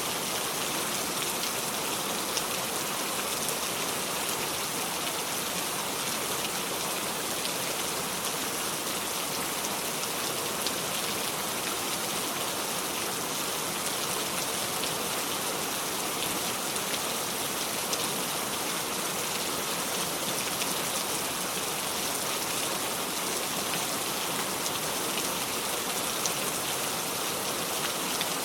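Steady rain without thunder: continuous rainfall hiss with individual drops pattering on a surface.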